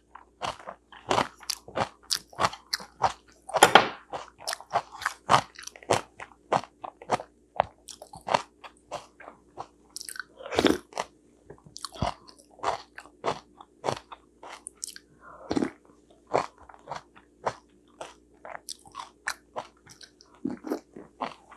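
A person chewing and crunching food close to a clip-on microphone: a quick, uneven run of crisp crunches and wet mouth clicks, with a few louder bites.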